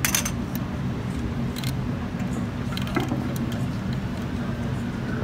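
Motorcade SUVs' engines idling and rolling in at low speed: a steady low rumble, with a few sharp clicks over it.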